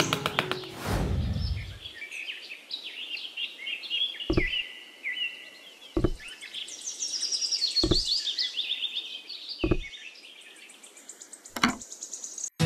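Small birds chirping repeatedly, with five sharp knocks about two seconds apart as the small model brick walls are set down. A falling whoosh comes near the start.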